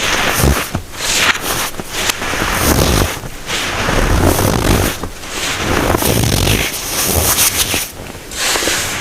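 Packed baking soda crunching and squeaking as it is crushed, in several crisp bursts separated by brief pauses.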